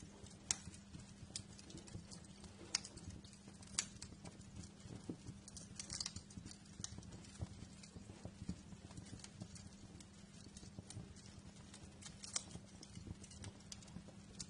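Wood fire crackling in a fireplace: irregular sharp pops and snaps, a few louder ones, over a steady low hum.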